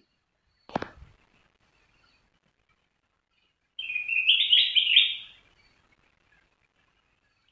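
A short knock about a second in, then a kutilang emas (a bulbul) sings one phrase of about a second and a half: a quick run of clear, high whistled notes stepping up and down.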